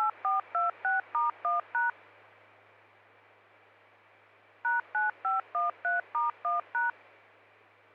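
Two quick runs of DTMF touch-tone beeps sent over an open radio channel: about seven rapid beeps at the start, then about eight more beginning nearly five seconds in. A steady hiss and a low hum from the open channel run underneath.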